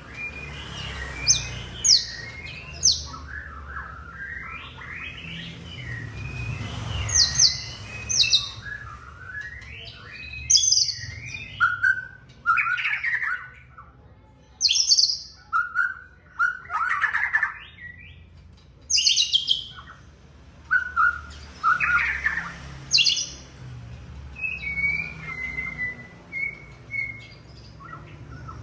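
White-rumped shama singing: a varied string of short whistled phrases, quick trills and sharp high notes, broken by brief pauses.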